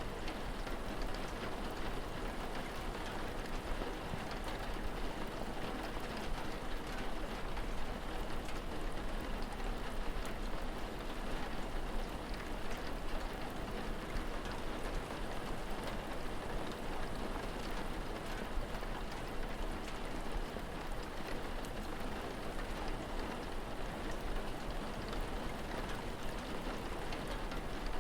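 Steady rain falling, an even hiss of drops with no let-up, over a constant low rumble.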